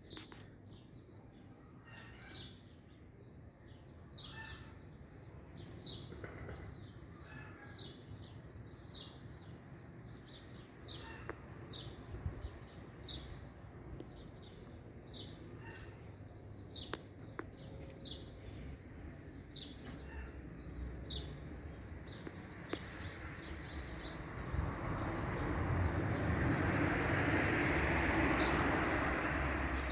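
A bird gives a short, high chirp over and over, roughly every second, against steady outdoor background noise. A louder rushing noise swells in near the end.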